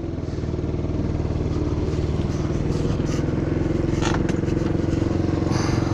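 New GY6 50cc four-stroke single-cylinder scooter engine running steadily at idle while still warming up after a first start. A couple of light clicks come near the end.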